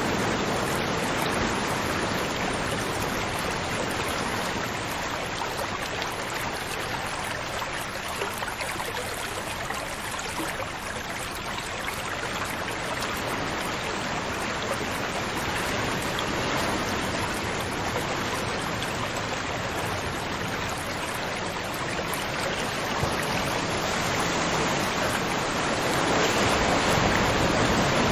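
River water flowing in a continuous, steady rush that grows a little louder near the end.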